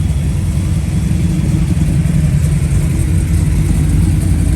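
A car engine running close by with a steady low rumble, growing slightly louder.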